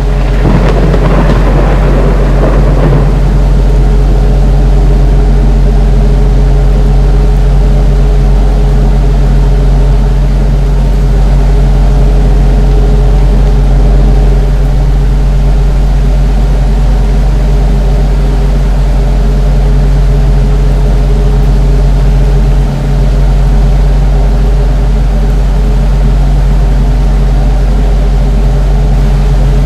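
Ceiling fan running with a loud, steady hum. A short rushing noise swells and fades in the first few seconds, and the hum dips for an instant near the end.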